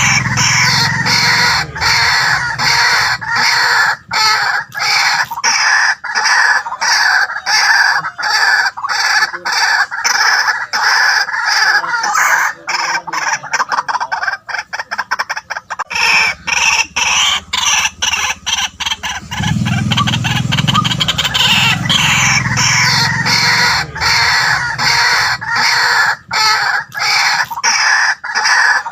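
White-breasted waterhen calling: a loud, continuous run of rapidly repeated harsh notes, with deeper low calls near the start and again about two-thirds of the way through.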